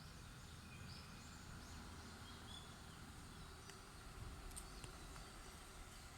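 Faint outdoor ambience of distant birds calling: many short chirps and whistles, over a low, steady background rumble, with a few faint clicks near the middle.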